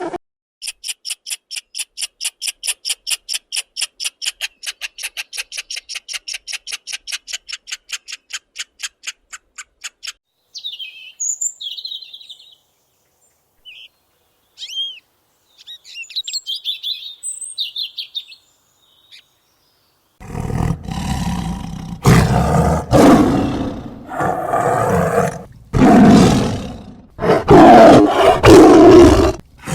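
A fast, even run of high chirps, about four a second, for the first ten seconds; then scattered short bird chirps; then, about twenty seconds in, a large animal roaring loudly several times in a row.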